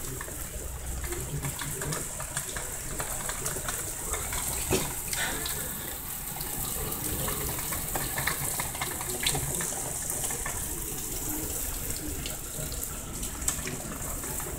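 Heavy rain pouring down: a steady hiss dotted with many small drop impacts on a wet wooden deck and railing.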